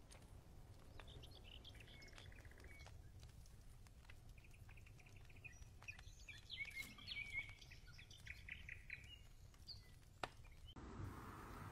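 Faint birdsong over low background noise: scattered high chirps and short rapid trills, busiest in the middle.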